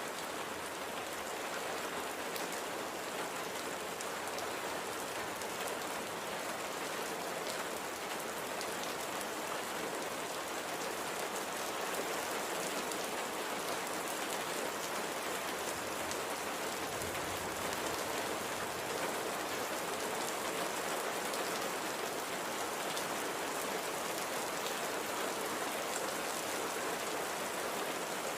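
Steady light rain falling, an even hiss of rainfall with scattered individual drop ticks.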